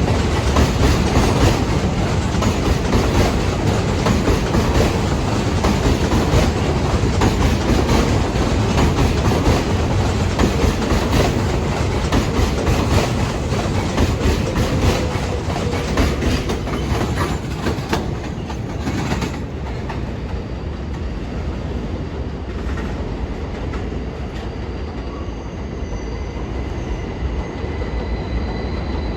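New York City subway train running through an elevated station, its wheels clacking rapidly over rail joints. The noise drops off about two-thirds of the way through, and thin wheel squeals come in near the end.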